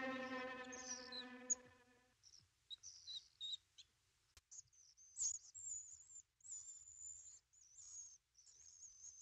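A held note with many overtones fades out over the first two seconds, then small birds chirp faintly in short, high, scattered calls.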